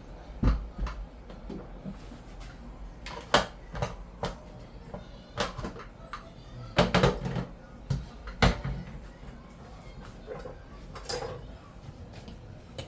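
Irregular knocks and clicks of metal cookware being handled, a pot and its lid knocking and clattering, with a few louder knocks spread through.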